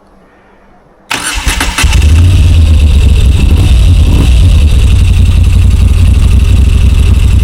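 Moto Guzzi V7 Stone Ten's V-twin engine being started: the starter cranks about a second in, the engine catches within a second and then runs steadily at idle, loud and low-pitched.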